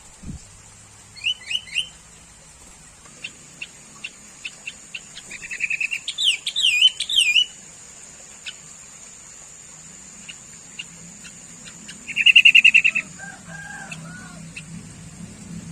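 Sooty-headed bulbul calling: a few quick chirps, then a dense run of rising and falling chattering notes about six seconds in, and a short buzzy trill about twelve seconds in. A steady faint high-pitched whine runs underneath.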